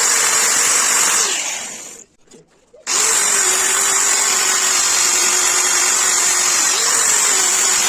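A power tool's motor is switched on and runs for about a second, then spins down and stops. After a short pause it is switched on again and runs steadily with a high whine, its pitch dipping briefly near the end.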